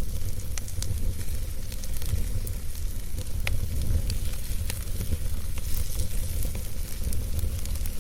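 Wood campfire burning: scattered sharp crackles and pops over a steady low rumble, with one louder pop about three and a half seconds in.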